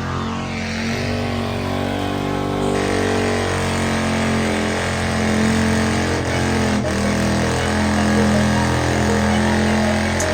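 Truck engine running at high revs, its pitch held steady while the level swells and eases about once a second.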